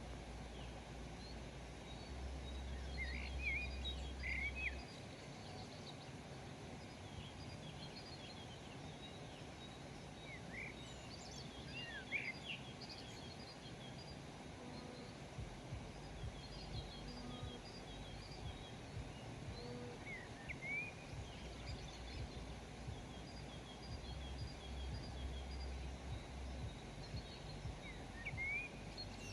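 Birds chirping and calling in short, scattered high notes over a steady outdoor hiss, with a low rumble twice.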